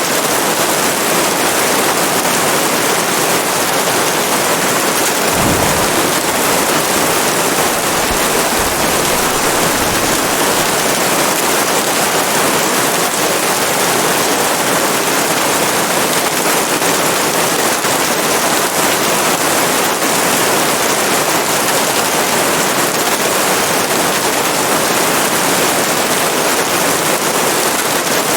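Steady, heavy rain falling as an even hiss, with a faint low rumble for a few seconds about six seconds in.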